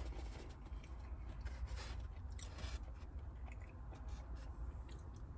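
A person chewing food with the mouth close to the microphone: soft, irregular wet clicks and smacks, over a low steady hum.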